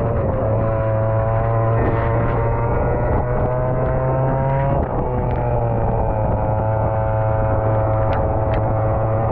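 Racing kart engine heard onboard at speed, its pitch climbing steadily, falling sharply just after the start and again about five seconds in, then climbing again.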